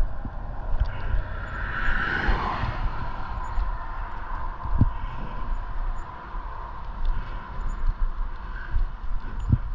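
A car passing on the road, its noise swelling and fading about two seconds in, over a steady low rumble with a few short knocks.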